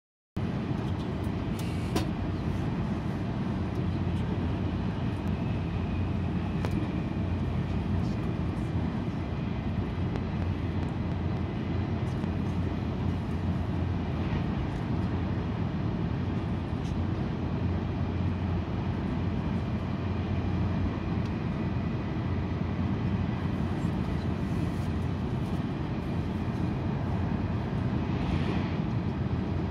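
TGV high-speed train running at speed, heard from inside the passenger car: a steady low rumble and rush of rolling and air noise, with a faint high whine coming and going and an occasional light click.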